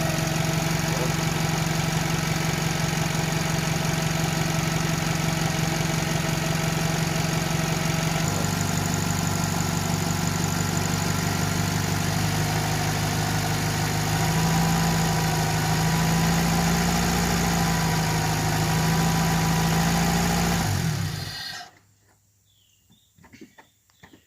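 An engine idling steadily, its pitch shifting slightly about eight and again about fourteen seconds in, then stopping abruptly near the end.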